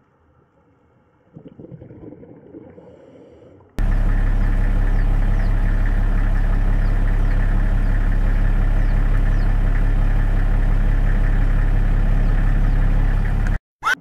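A loud, steady low hum that starts suddenly about four seconds in and cuts off abruptly shortly before the end, with faint short high chirps repeating above it about once a second. Before it there is a fainter, uneven sound.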